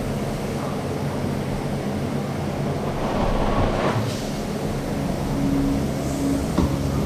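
Hot-water carpet extraction machine running with a steady low drone, and a louder rushing swell for about a second midway.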